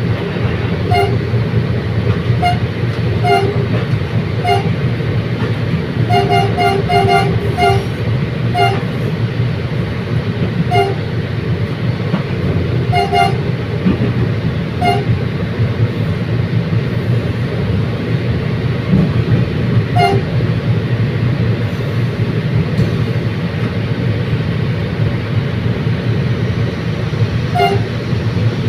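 Commuter train running with a steady low rumble, sounding short horn toots again and again: some single, some in quick runs of three or four.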